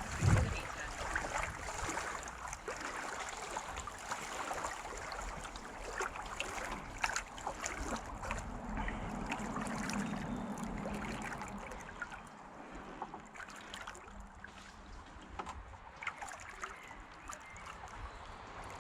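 Water trickling and lapping around a racing kayak resting between efforts, with scattered small drips and splashes.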